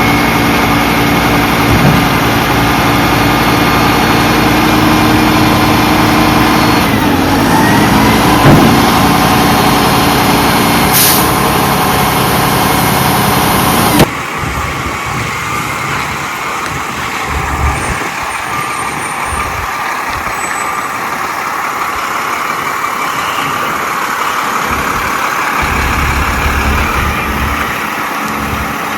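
Garbage truck's diesel engine running loud, its pitch dipping and rising again about seven seconds in, with a short hiss of air about eleven seconds in. About halfway through, the sound cuts abruptly to a quieter truck engine running.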